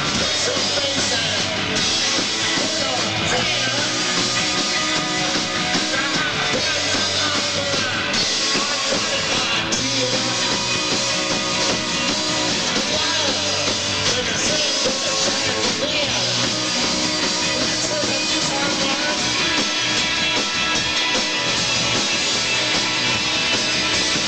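Rock band playing a song live, loud and steady, in a punk-tinged rock and roll style.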